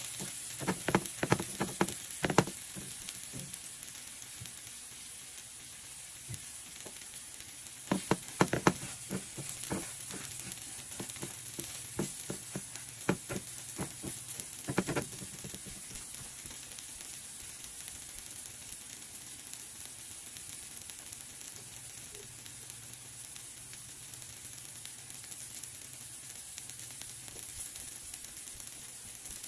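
Eggplant omelette (whole flattened eggplants in beaten egg and onion) sizzling steadily in oil in a nonstick frying pan. Clusters of quick knocks and scrapes from a spatula against the pan come near the start and again around the middle; then only the even sizzle remains.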